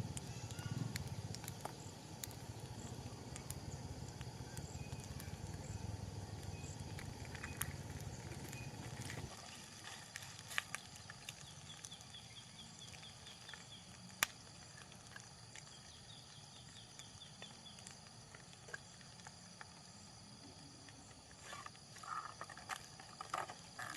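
Steady high-pitched trilling of night insects in a forest, with short chirping runs now and then and scattered faint clicks. A low rumble lies under it and cuts off suddenly about nine seconds in.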